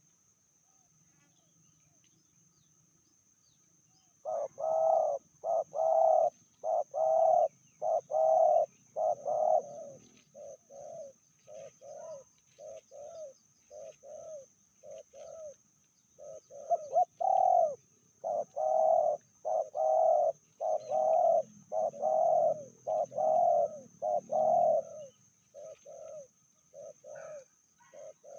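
Spotted doves cooing: a long series of short, repeated coos that begins about four seconds in, with louder stretches of coos alternating with softer, shorter ones.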